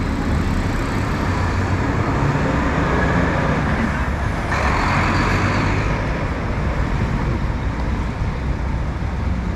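City street traffic: a steady low rumble of vehicle engines, with a sudden hiss about halfway through that fades over a second or so.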